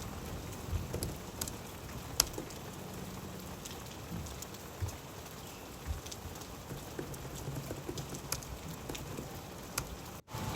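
Steady rain with scattered sharp drops hitting a surface. The sound cuts out for a moment near the end.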